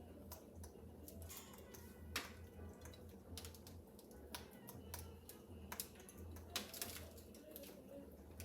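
Faint, irregular clicks and crackles with a few sharper snaps: an African grey parrot picking and chewing at a foraging toy of rope, cardboard pieces and bottle caps, over a low steady hum.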